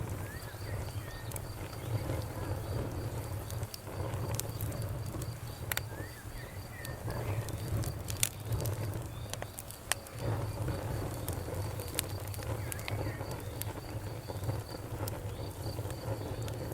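Wood fire crackling, with irregular sharp pops over a steady low rumble of flames. A steady, high-pitched pulsing chirp runs behind it.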